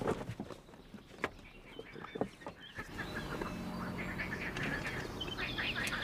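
A few light knocks in the first half, then birds chirping from about three seconds in, the calls growing busier near the end.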